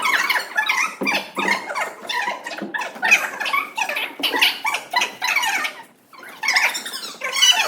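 A group of children's high voices chattering and shouting over one another, with a brief lull about six seconds in.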